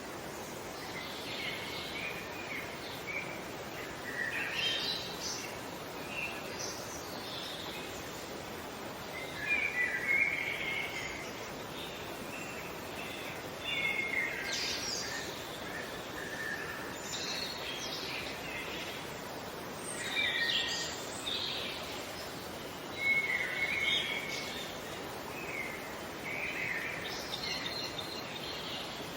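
Birds calling and singing in short chirping phrases every few seconds, over a steady background hiss of outdoor ambience.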